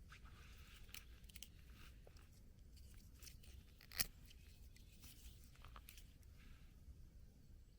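Faint rustling and scattered small cracks, with one sharp snap about four seconds in.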